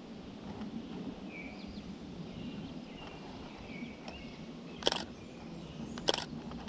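Quiet woodland background with faint, short bird chirps, then two sharp clicks a little over a second apart near the end, DSLR camera shutter releases as he shoots the hawk through the trees.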